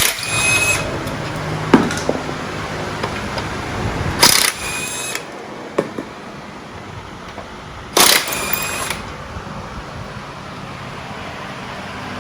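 Three short bursts of a whining air tool, such as an air ratchet, each about a second long, with a few metal clinks between them.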